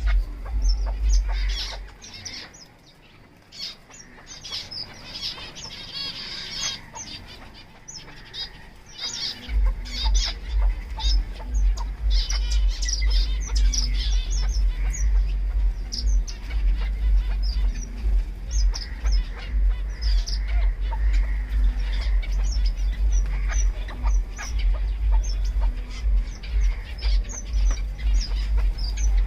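Chukar partridge chirping, many short, high calls in quick succession. A low rumble runs underneath, dropping out from about two seconds in until about nine and a half seconds in.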